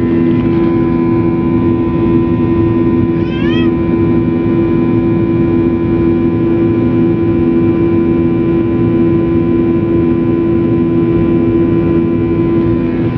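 Loud, steady drone of an airliner's engines heard inside the cabin during the takeoff climb. About three seconds in, a short rising cry-like whine cuts through.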